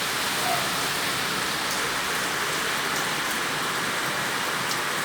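Steady heavy rain falling and hitting surfaces, an even hiss with faint scattered drip ticks.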